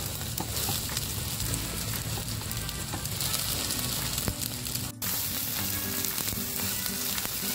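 Egg whites sizzling in hot oil in a non-stick pan as a silicone spatula stirs and breaks them up: a steady frying hiss full of fine crackles. It is broken by a very brief gap about five seconds in.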